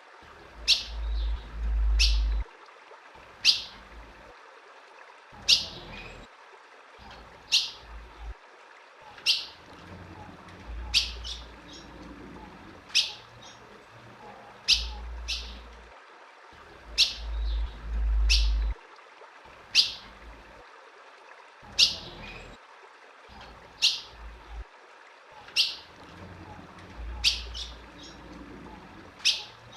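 Female ultramarine grosbeak (azulão) giving short, sharp chirp calls that fall in pitch, singly or in quick pairs about every one to two seconds. This is the female's call used to excite a male azulão. A low rumble comes and goes underneath.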